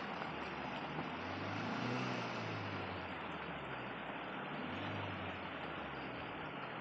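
Suzuki Jimny running over a rough, slippery dirt track, a steady rumble of engine and tyre noise. The low engine note rises and falls twice, around two seconds in and again near five seconds.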